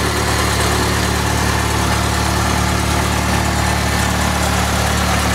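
Cessna 152's four-cylinder Lycoming piston engine and propeller running steadily, a low even drone.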